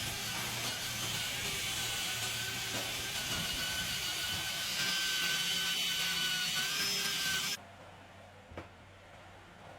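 A power tool running with a steady hiss and a faint whine, cutting off suddenly about three-quarters of the way through; a light knock follows.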